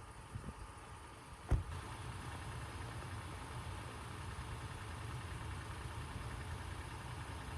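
A sharp thump about a second and a half in, then a car engine running steadily at low revs.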